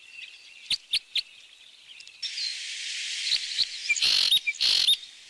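Crossbills giving short, sharp chirping calls, several in quick succession, over a steady hiss of background noise that starts about two seconds in.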